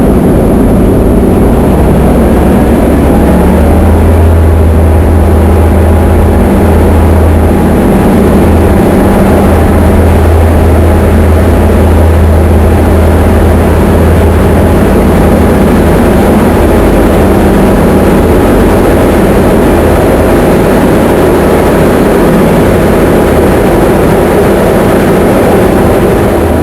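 Diamond DA20 light aircraft's piston engine and propeller running with a steady, loud drone and low hum.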